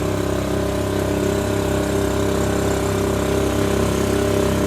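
An engine running steadily at an even speed, with a low, unchanging hum.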